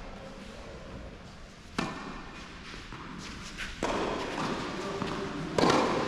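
Tennis ball being hit back and forth in an indoor tennis hall: sharp racket-on-ball strikes about two seconds apart, each ringing on in the hall's echo, the last one the loudest.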